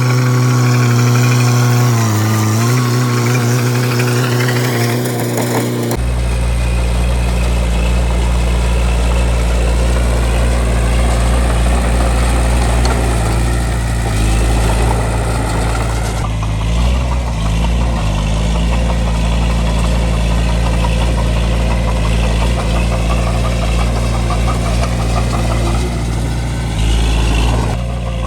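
Bulldozer's diesel engine running steadily with a deep drone, its pitch dipping briefly about two seconds in. About six seconds in the sound changes abruptly and a deeper low rumble joins.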